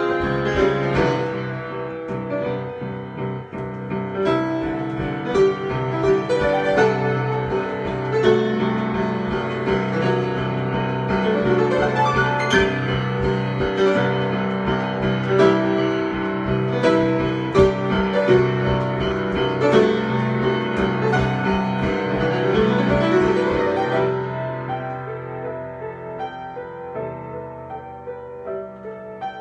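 Solo piano improvisation: many sustained notes and chords, the playing thinning out and growing softer about three-quarters of the way through.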